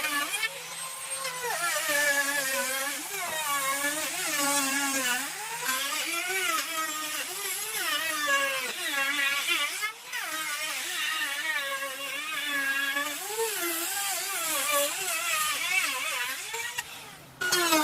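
Handheld electric drill running in wood, its motor whine rising and falling in pitch as the load changes, with a brief letup about ten seconds in and a short stop and restart near the end.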